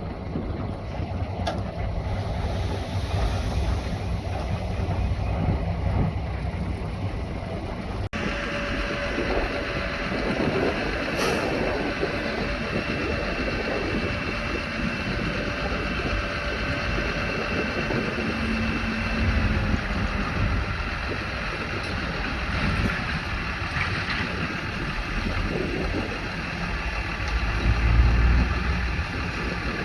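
Diesel engines of heavy earthmoving machinery running, a steady low rumble with faint whining tones. The sound changes abruptly about eight seconds in.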